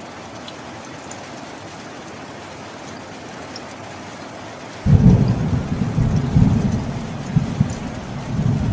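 Steady rain, then about five seconds in a sudden loud clap of thunder that rolls on as a deep, pulsing rumble.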